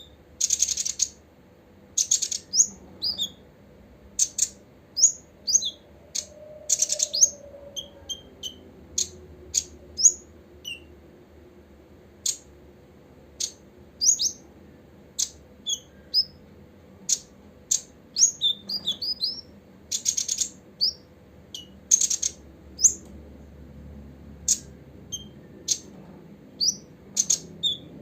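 Copper-throated sunbird calling: a run of short, sharp, high chirps at irregular intervals, mixed with a few longer, harsh buzzy notes.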